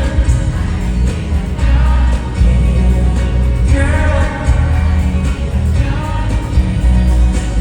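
Live pop/R&B song played loud through a concert sound system, with singing over a heavy bass beat.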